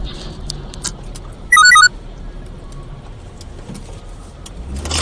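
Car cabin and road noise with scattered small clicks and rattles. About a second and a half in, a short electronic chime of a few quick alternating beeps is the loudest sound.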